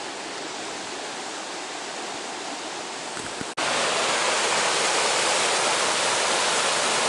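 Steady rushing of water, like a stream running nearby. About halfway through it cuts out for an instant and comes back louder.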